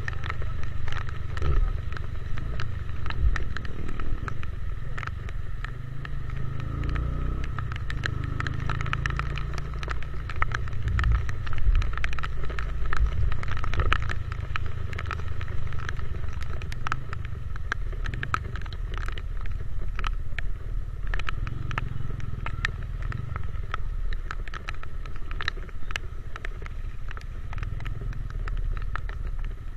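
Motorcycle being ridden in the rain: wind buffeting the microphone in a low rumble over the running engine, with frequent sharp ticks of raindrops striking the camera.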